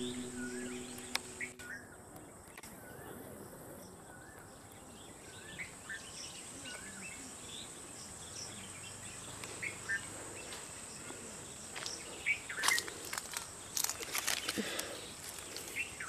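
Quiet mango-orchard ambience with a bird repeating a short warbling call about once a second. In the last few seconds, leaves rustle and crackle as a hand pulls at a fruiting branch and grips a mango.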